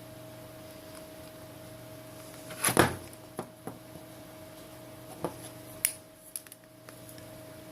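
Sharp clicks and knocks of a phone and small repair tools being handled on a hard work surface while the back cover is pried at. The loudest comes nearly three seconds in and a few lighter taps follow, over a steady low electrical hum.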